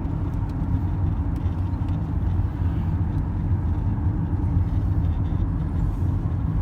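Steady low rumble of a car's engine and tyre noise on the road, heard from inside the cabin while driving.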